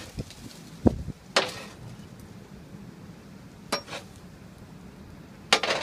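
Metal tools and stock at a forge knocking and clanking: four separate, irregularly spaced hits, a dull knock about a second in and sharper, briefly ringing metal clanks after it, the last one near the end.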